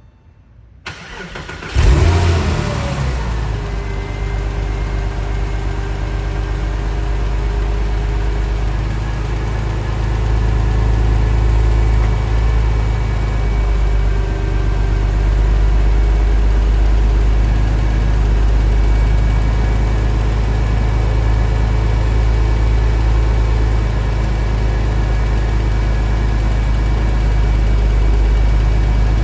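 1999 Porsche 911 Carrera (996) flat-six cold start: the starter cranks briefly about a second in, the engine catches about two seconds in with a short rev flare, then settles into a steady fast cold idle.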